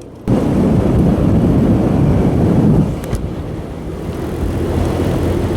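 Motorcycle on the move: engine running steadily under heavy wind rush over the rider's helmet-mounted microphone. The wind noise comes in suddenly just after the start and eases off slightly about three seconds in.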